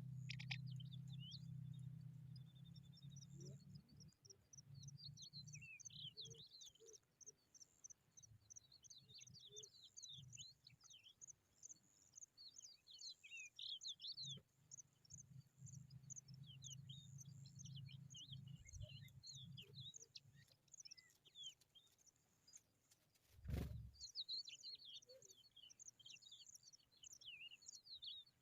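Faint, dense chirping and twittering of small birds, with many short high notes overlapping. A low drone comes and goes underneath, and a single dull thump sounds near the end.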